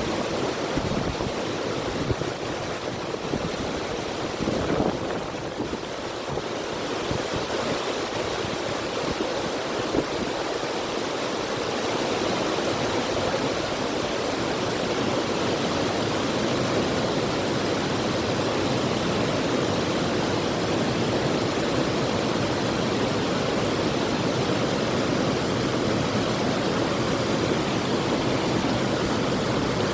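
River water rushing in a steady, dense hiss.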